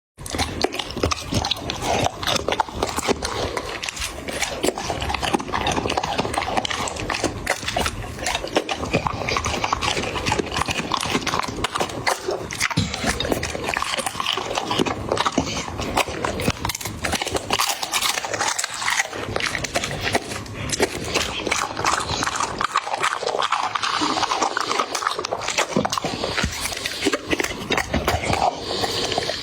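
A dog eating food: continuous chewing and mouth sounds, with many small clicks and crunches.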